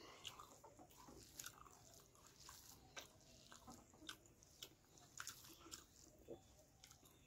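Faint chewing with irregular small smacks and clicks from a mouthful of curry and rice, along with soft squishing as fingers mix rice and curry on a steel plate.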